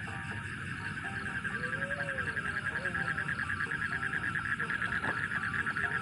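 Night chorus of calling animals: a fast, evenly pulsing trill that grows louder over the first second or two, with a couple of lower calls that rise and fall in pitch.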